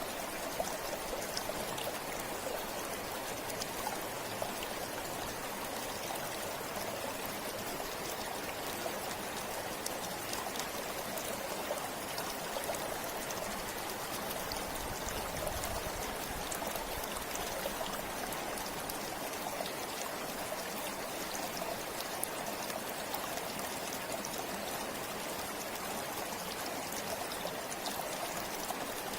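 River water flowing: a steady, even rush with many small splashes and drips throughout.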